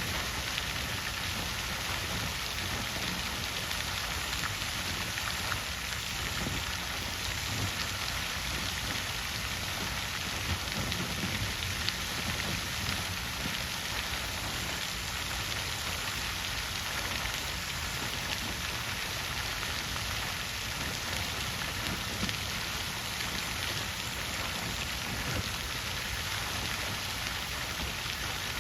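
Water fountain running: a steady, even splashing of falling water.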